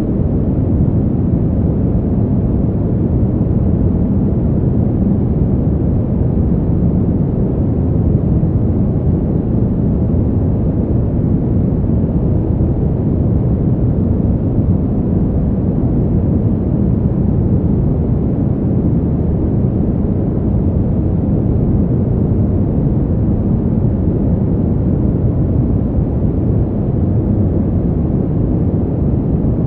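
Steady, deep wind noise for sleep, an even low rush with no gusts and little hiss on top.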